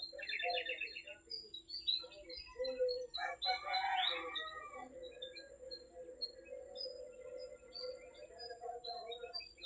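Small birds chirping and twittering: a fast trill near the start, repeated short high chirps, and a louder burst of calls about three to four seconds in.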